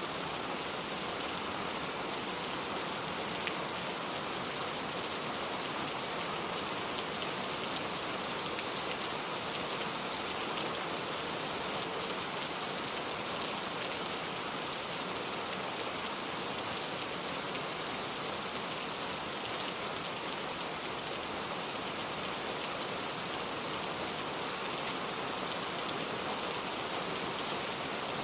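Heavy rain pouring steadily, a dense even hiss with scattered faint drop ticks.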